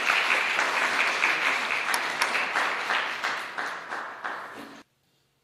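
Audience applauding, dense at first and gradually thinning, then cutting off suddenly near the end.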